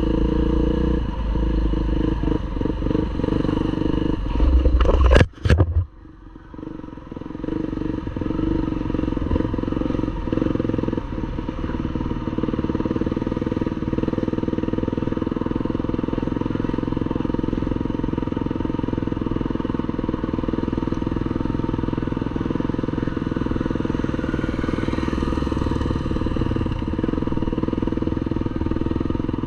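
MX1 motocross bike engine running steadily. About five seconds in there is a loud, sharp burst, then the engine briefly drops away before picking back up.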